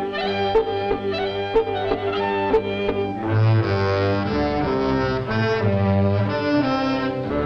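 Orchestral cartoon score with strings. In the first three seconds it goes in short accented steps about once a second, then it moves into a fuller passage of held notes.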